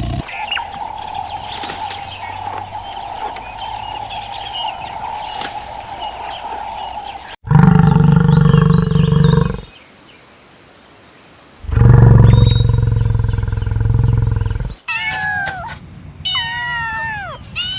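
Two loud, deep calls from a large animal, each lasting two to three seconds with a short silence between them, followed near the end by a cat meowing repeatedly in falling cries.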